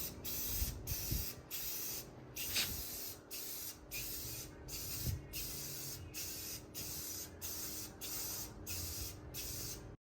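Aerosol spray paint can sprayed in quick repeated passes: a string of short hisses, about one and a half a second, that cuts off just before the end.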